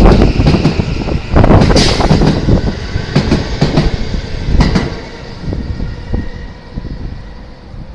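JR West 323 series electric train pulling out and running past, its wheels clacking over rail joints under a steady rumble. The sound drops away after about five seconds as the last car goes by.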